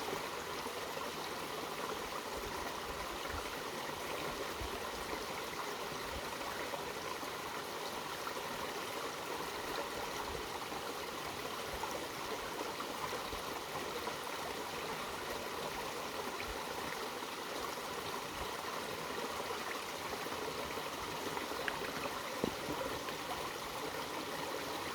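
Mountain valley stream flowing steadily over rocks, an even rushing and babbling of water. One small tap stands out near the end.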